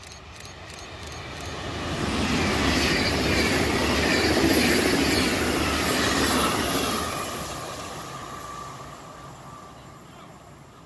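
Trenitalia ETR 700 Frecciargento electric high-speed train passing close at speed: a rush of wheels and air that builds over about two seconds, holds for several seconds, then fades away. A faint steady tone lingers as it draws off.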